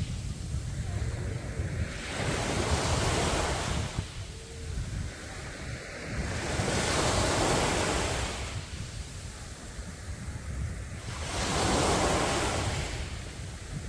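Sea waves breaking and washing up the beach, the surf surging three times, about every four to five seconds, over a steady low rumble of wind on the microphone.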